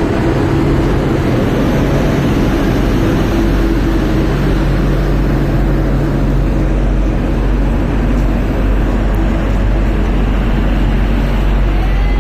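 WAP7 electric locomotive running with a loud, steady drone, several constant low hum tones under a broad roar.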